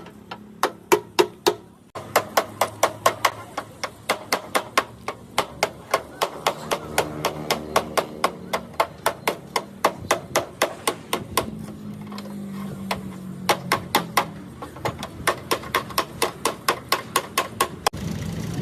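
A hammer striking again and again in a quick, even rhythm of about four blows a second, with a brief pause about two seconds in.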